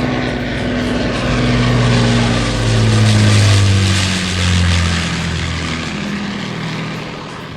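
Avro Lancaster bomber's four Rolls-Royce Merlin piston engines flying overhead. The engine note is loudest around the middle and falls in pitch as the plane passes.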